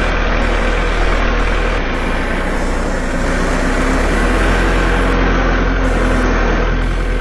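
Farm tractor engine running steadily as the tractor drives along, a continuous low drone with a slight change in its low note between about two and four seconds in.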